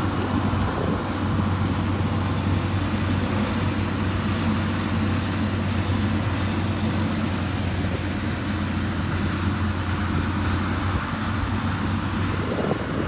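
Engine of a heavy road-construction machine running steadily, with a constant low hum.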